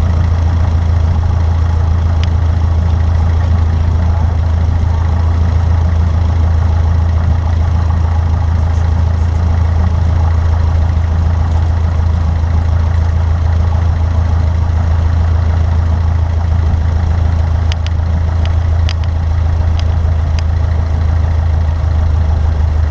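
Cessna 152's four-cylinder piston engine and propeller running at a steady, unchanging speed, a loud low drone.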